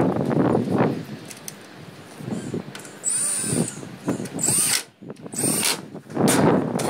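Power drill running in three short bursts with a high whine, as when driving screws, amid handling and clattering noise.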